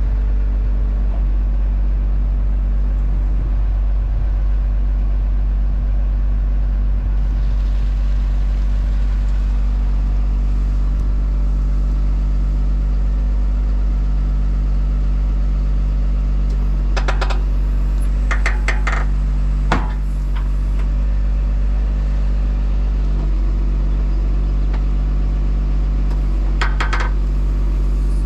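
Tractor engine running steadily at a constant speed, with a few brief metallic rattles and clicks about two-thirds of the way through and again near the end.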